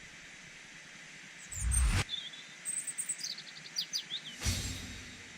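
Small birds chirping and whistling a series of short high notes over a faint outdoor ambience. Two deep rushing swells break in, one about a second and a half in that cuts off sharply, and another near the end that fades away.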